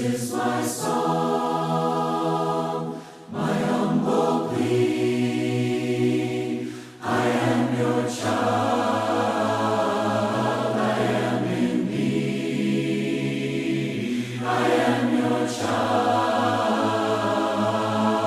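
A choir singing a hymn a cappella in parts, in long held phrases with short breaks about three and seven seconds in.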